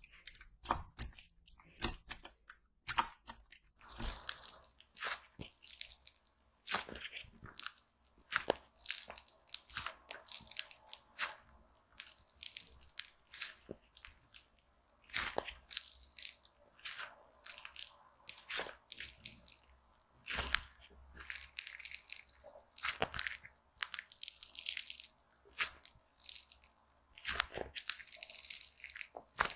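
Slime being worked and pressed, giving a continual run of short, crisp crunching crackles, a burst or two every second.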